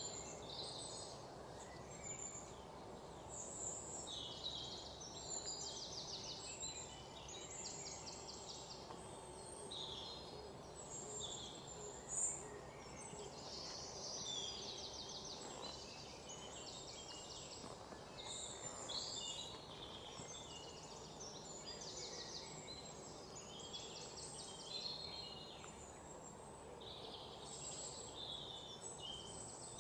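Several birds singing throughout: overlapping chirps and fast trills over a faint steady background hiss, with one brief louder, sharper sound about twelve seconds in.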